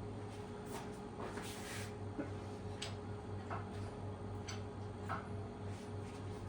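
Steady low hum with a faint steady tone above it, and scattered light clicks and taps every second or so.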